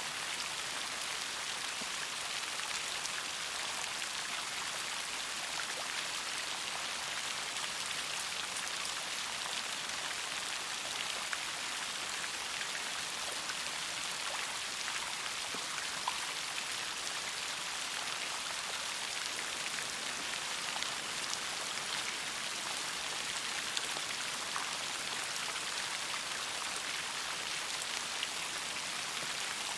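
Steady rain falling, an even hiss with many small drops ticking on a surface and a few louder single drops.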